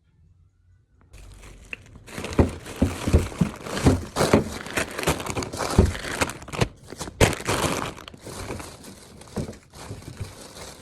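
Plastic grocery bags rustling and crinkling as shopping is handled and unpacked, with frequent knocks of items being moved. It starts about a second in and runs busily from about two seconds in.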